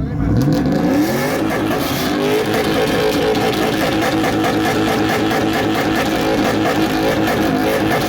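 Car engine revving up, its pitch climbing over the first second or two, then held steady at high revs.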